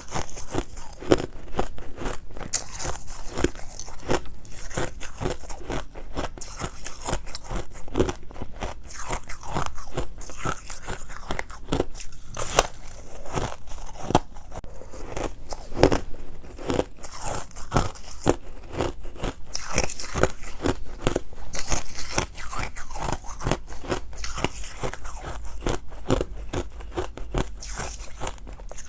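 Close-up crunching of ice being bitten and chewed, a dense run of sharp crunches several times a second.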